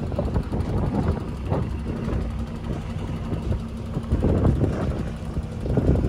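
Mazda 1800's four-cylinder engine and exhaust running as the car drives slowly past, with irregular surges as the throttle is worked.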